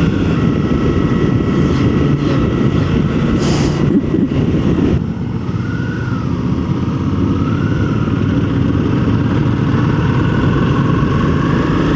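Motorcycle engine running steadily under load with wind rush, ridden through bends in fourth gear. The loudness dips slightly about five seconds in.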